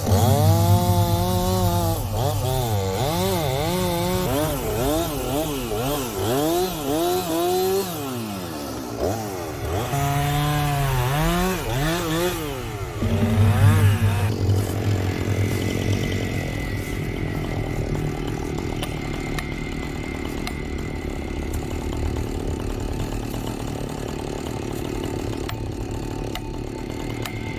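Chainsaw cutting into a red oak trunk, its engine pitch rising and falling over and over as it bites into the wood, with a brief letup about eight seconds in. About fourteen seconds in the pitch swings stop and the saw runs on steadily.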